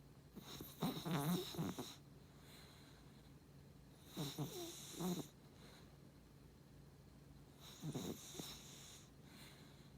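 A beagle–Cavalier King Charles spaniel mix dog snoring in its sleep: three rough snores, roughly every three and a half to four seconds.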